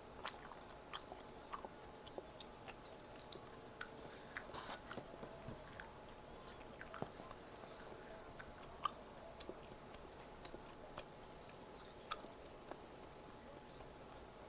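Close-miked chewing of food, with scattered irregular sharp mouth clicks, a few of them louder.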